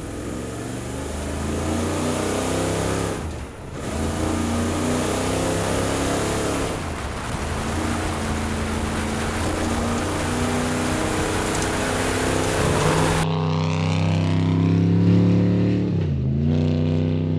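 Off-road race vehicle's engine revving hard as it is driven at speed, its pitch stepping up and down; about two-thirds of the way through the sound changes, and near the end the revs drop briefly and climb again.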